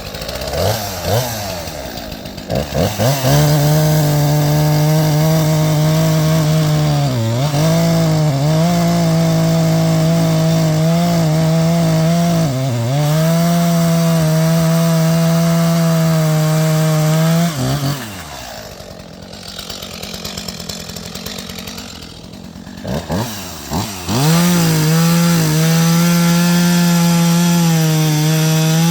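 Chainsaw revving up and cutting into a fallen longleaf pine whose heartwood is resin-soaked fat lighter. It runs at full speed with brief dips as it bites. About eighteen seconds in it drops back to idle for several seconds, then revs up and cuts again.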